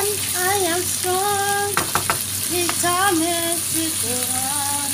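Diced bell peppers, onion and bacon sizzling in oil in a nonstick frying pan as they are stirred, with a few quick knocks of the utensil against the pan about two seconds in. A melody of held and gliding notes runs over the frying.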